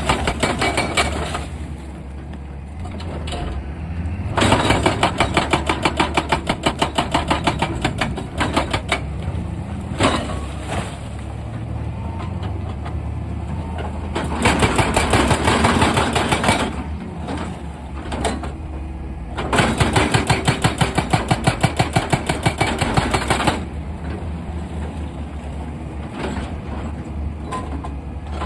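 Excavator-mounted hydraulic rock breaker hammering rock in bursts of rapid, evenly spaced blows a few seconds long. Between the bursts the excavator's diesel engine runs steadily.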